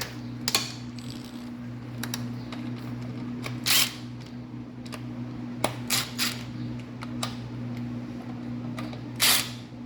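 Scattered light metallic clicks and a few brief scrapes as bolts and parts are handled at an LS engine's front timing cover, over a steady low hum.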